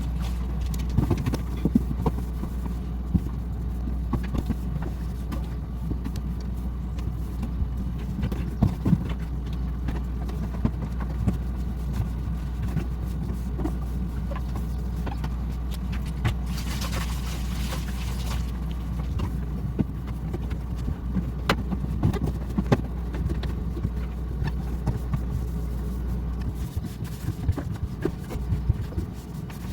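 Scattered knocks and clatter of things being handled during kitchen cleaning, over a steady low hum, with a short hiss about halfway through.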